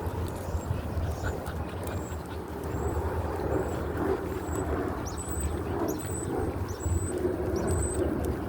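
Wind buffeting the microphone, a steady rumbling rush that rises and falls with the gusts. Faint short high chirps come through it from about halfway.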